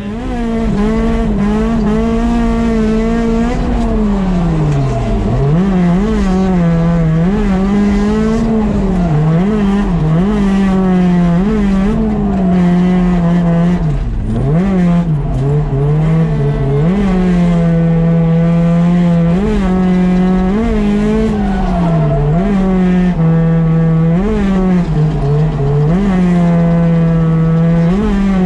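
A drift car's engine held high in the revs, its pitch dropping and climbing back again and again as the car is driven through slides.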